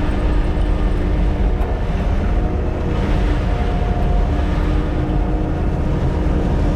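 Kubota SVL97-2 tracked skid steer's diesel engine running steadily: a loud, deep rumble with a faint steady whine on top.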